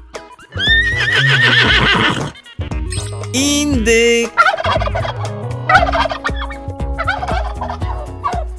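A horse whinnying for about two seconds near the start, then a turkey gobbling repeatedly through the second half.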